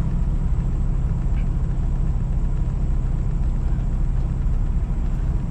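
Kenworth T680 semi truck's diesel engine idling, a steady low rumble.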